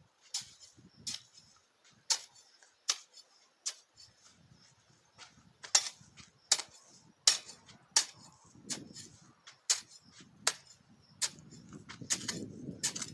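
Repeated sharp strikes of a digging tool into the soil, about one a second with a short pause in the middle, opening holes for planting corn; a low scraping and rustling of earth joins in the second half.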